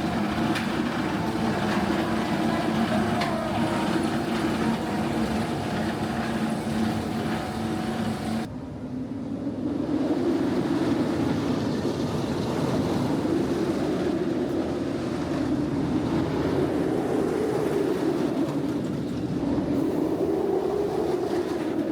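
Nemesis roller coaster's train and ride machinery running with a steady hum. About eight seconds in, the sound cuts suddenly to a steady rumble whose low pitch slowly rises and falls.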